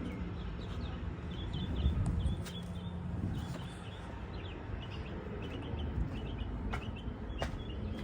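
Small birds chirping repeatedly over a steady low rumble, with a couple of sharp clicks near the end.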